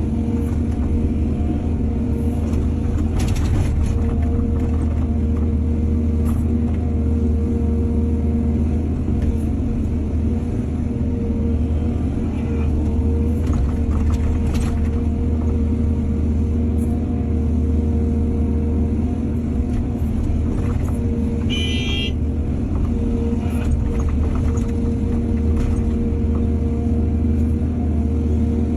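Diesel engine of heavy earthmoving machinery running steadily, a low drone with a steady hum over it. A few sharp clanks are scattered through it, and there is one brief high squeal late on.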